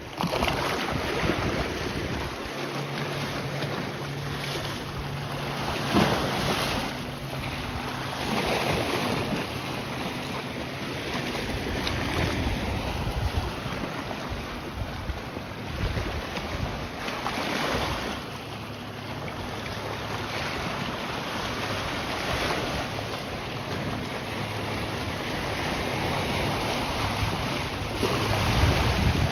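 Lake waves washing against the shore, swelling every few seconds, with wind buffeting the microphone. A faint steady low hum runs underneath from a few seconds in.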